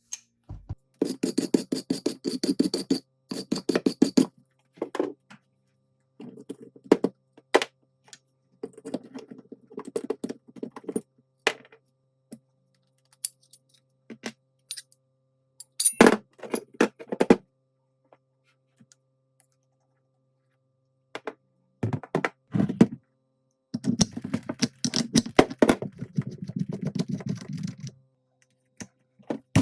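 Workshop handling and tool sounds during the teardown of an old nail gun: bursts of rapid clicking, each lasting a couple of seconds, near the start and again near the end, with scattered sharp taps and knocks between them.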